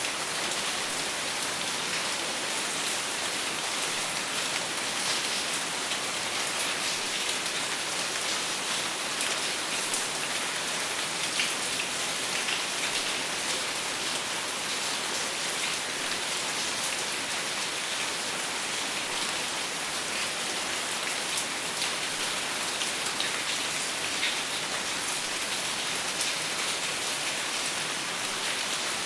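Steady rain falling on a surface, a constant hiss with many small drop ticks throughout and no thunder.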